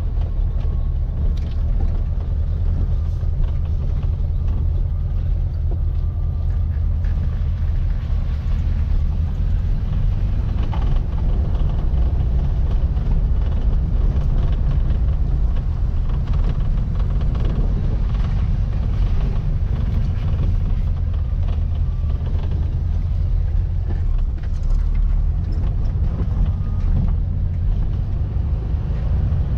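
Air-cooled 1700cc flat-four engine of a VW Baja Bug running steadily while driving, a loud low drone.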